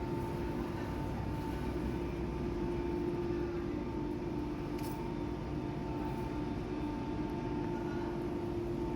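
Steady industrial machinery drone with a constant hum, unchanging throughout, and one brief click about five seconds in.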